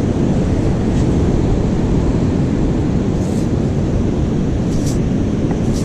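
Strong wind buffeting the microphone, a steady low rumble with beach surf under it. A few brief faint rattles come through in the second half.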